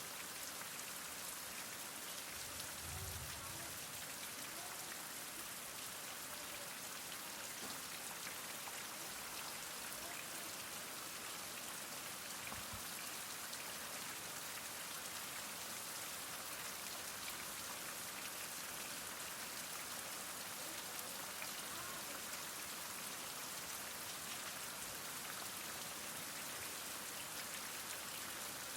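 Heavy rain falling steadily, an even hiss of many drops, with a brief low thud about three seconds in.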